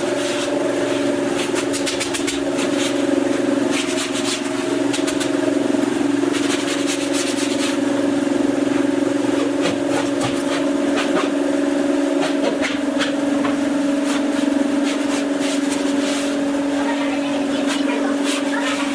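CNC wood router running: the spindle motor holds a steady tone while the bit cuts into the wood, with a recurring crackly cutting noise over it.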